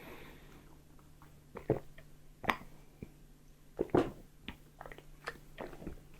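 Someone eating: chewing, with a handful of short, sharp clicks and taps scattered through, the clearest about two, two and a half and four seconds in.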